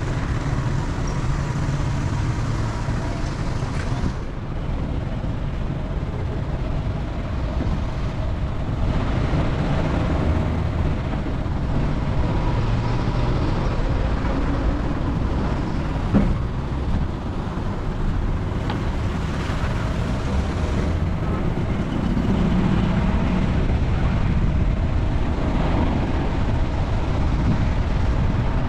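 A car driving, with a steady rumble of engine and road noise.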